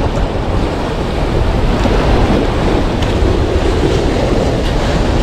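Sea waves surging with wind buffeting the microphone: a steady rushing noise with no distinct strokes.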